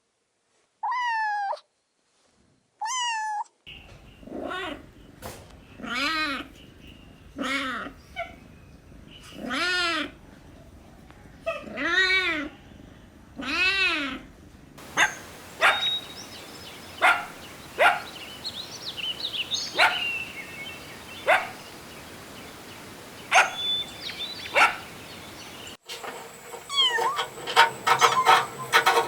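Kittens meowing over and over, high calls that rise and fall, one every second or two. About halfway through the background changes and the meows give way to short, sharp calls and clicks, with more meowing after a cut near the end.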